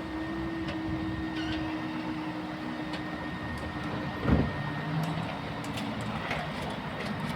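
Steady engine hum of a vehicle that slowly fades, with a single loud thump about four seconds in.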